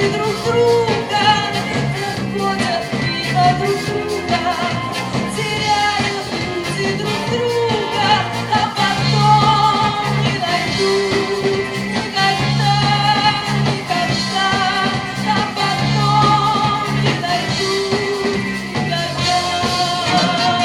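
Live band playing a pop-rock song, a melody line over a steady bass and drum beat.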